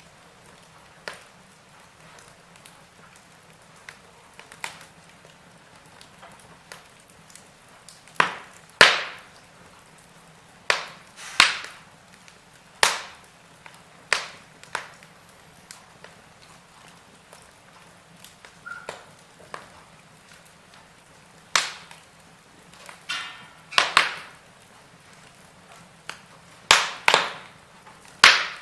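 Wood fire in a fireplace crackling, with sharp pops at irregular intervals, some coming in quick pairs, over a faint steady hiss.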